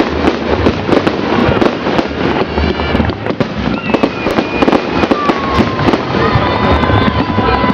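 A fireworks salute firing continuously: a dense run of bangs and crackles, with a few long whistling tones in the second half.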